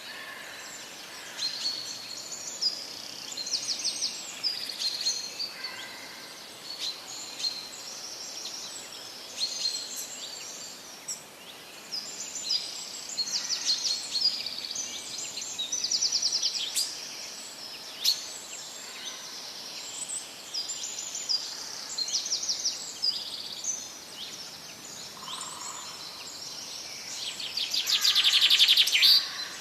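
Several birds chirping and singing over a faint steady background hiss, many short calls and quick trills overlapping. Near the end one bird gives a louder, fast rattling trill.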